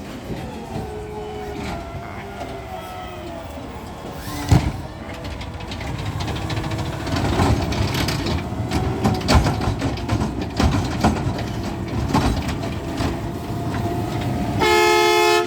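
Garbage truck engine running under hydraulic load with a steady whine and several sharp clanks, getting louder about halfway through. A loud steady tone sounds briefly near the end.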